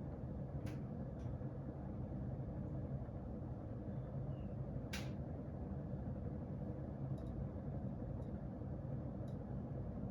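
52-inch Fasco Parlour ceiling fan running steadily with a low hum and rush of air, broken by a few light clicks, the clearest about five seconds in.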